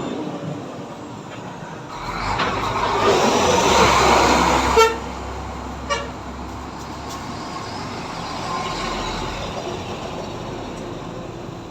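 A motor vehicle passes close by, its noise swelling for a few seconds, then two short horn toots about a second apart.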